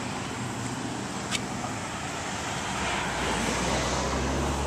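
Steady road traffic noise with a single sharp click about a second in; a vehicle's low rumble builds from about three seconds in.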